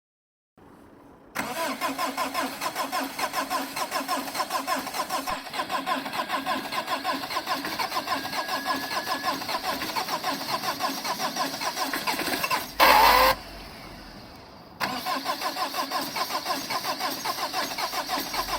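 Starter motor cranking a 2009 Subaru Impreza's four-cylinder boxer diesel at −16°C, with a rhythmic pulse as each compression is turned over; the cold diesel does not catch. The cranking stops for a moment after a short loud burst about two-thirds of the way through, then starts again.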